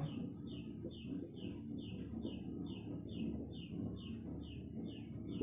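A bird repeating short, high, falling chirps at a steady pace of about four a second, over faint low background noise.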